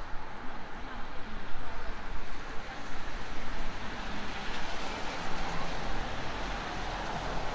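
Jet airliner passing overhead over city background noise: a steady broad rumble that grows stronger in the second half.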